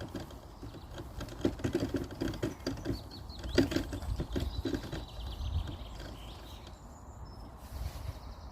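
Geese and goslings: a quick run of soft short sounds through the first half or so, with faint thin peeping, then quieter.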